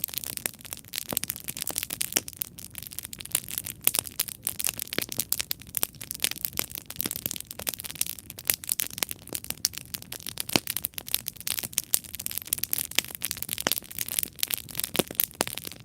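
Wood campfire burning with dense, continuous crackling and popping, sharp snaps over a soft hiss.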